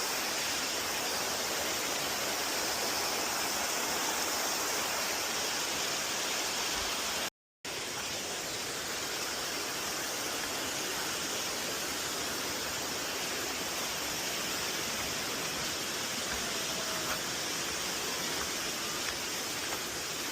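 Steady rush of falling water from a waterfall. It drops out completely for a split second about seven seconds in.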